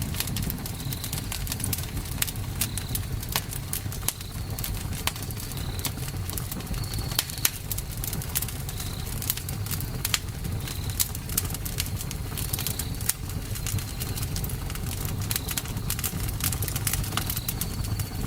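Campfire crackling, with frequent sharp pops over a low steady rumble. Short high chirps recur every second or two in the background.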